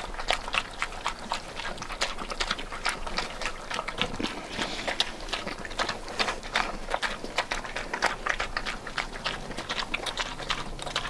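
Pigs at close range, a steady run of irregular crackles and clicks.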